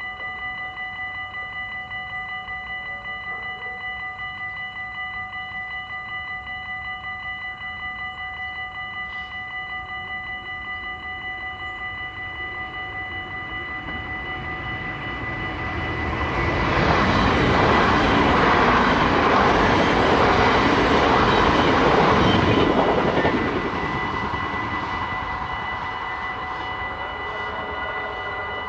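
Level crossing warning bell ringing in quick, steady strokes while a train approaches and passes. The train's rumble swells about halfway through, is loudest for about six seconds, then fades as the bell keeps ringing.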